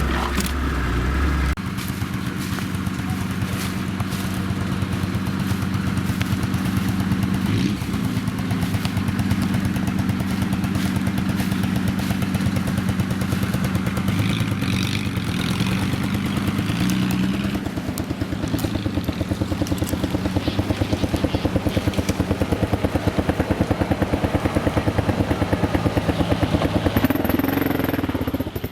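A vehicle engine running steadily with a rhythmic low note, its speed shifting a few times, with some clatter.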